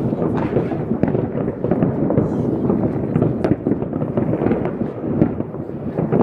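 Many New Year's fireworks and firecrackers going off at once: a dense, continuous crackle of bangs with no pause.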